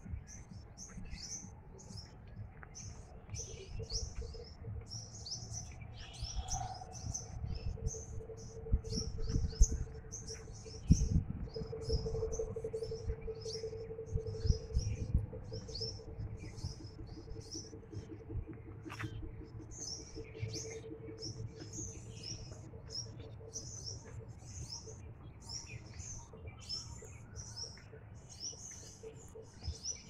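Small birds chirping over and over, short high-pitched chirps about twice a second, over a low rumble. A faint steady hum comes in for a while in the middle.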